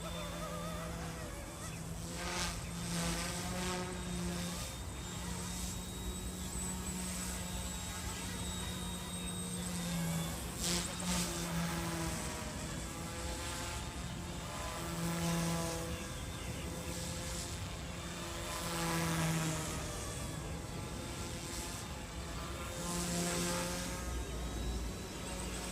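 Eachine E190 PRO UH-1 scale RC helicopter in flight: a steady buzzing whir from its small electric motors and rotors, rising and falling in pitch and swelling several times as the throttle changes.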